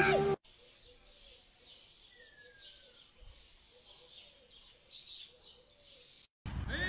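Faint bird chirps and twittering, with one falling whistled note about two seconds in, over near silence.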